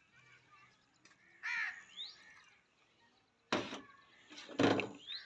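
A bird calls briefly with a rising chirp. There are two short clatters of kitchenware being handled on a metal table, about three and a half and four and a half seconds in; the second is the louder.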